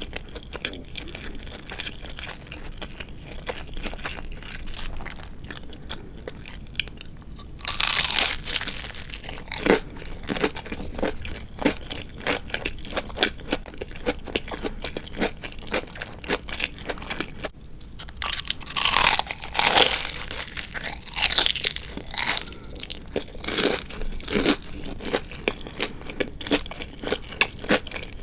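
Close-miked chewing of crispy deep-fried chicken (tatsuta-age), with steady crunching throughout and two louder, crunchier bites, one about eight seconds in and one about two-thirds of the way through.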